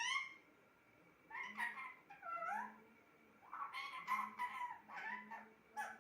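Pet parrot vocalising in a series of short calls and chatters with gliding pitch, the longest run in the second half.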